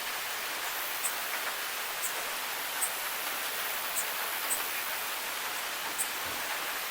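Steady rain hiss with sharp drip ticks roughly once a second.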